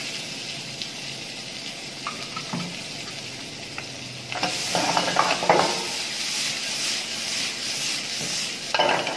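Chopped onion, tomato and chilli sizzling in hot oil in a small kadai, with a steel ladle stirring and scraping the pan. The sizzle gets louder about halfway through as the pan is stirred and tossed, and the pan clatters briefly near the end.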